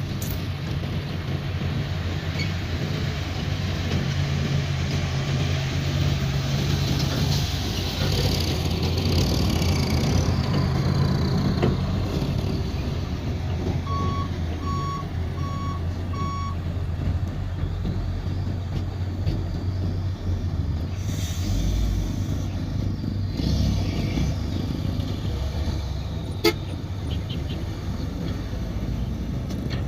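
Diesel dump truck engine running steadily, with a reversing alarm beeping four times about halfway through and a single sharp click near the end.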